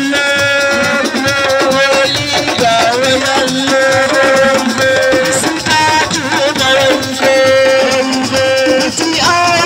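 Live assiko band music: a shaker rattles over percussion beneath a melodic line of long, wavering held notes.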